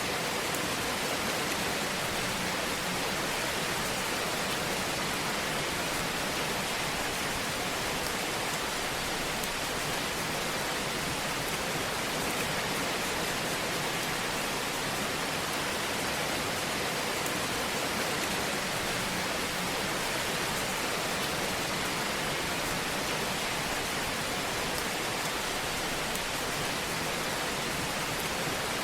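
Wood fire crackling in a fireplace: a steady hiss with faint scattered crackles and pops throughout.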